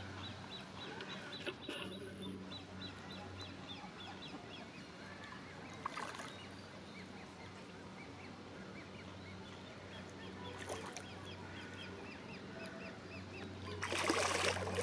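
Ducks calling on the water, with a long run of quick, high, repeated peeps at about three or four a second. A short loud rush of noise comes near the end.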